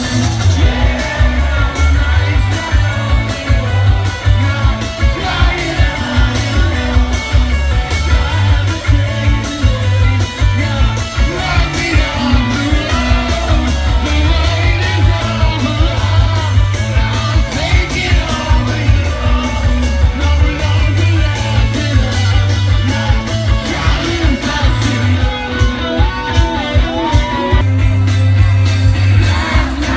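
Rock band playing live: electric guitars, bass and drums on a steady beat, with a singer's vocal over them.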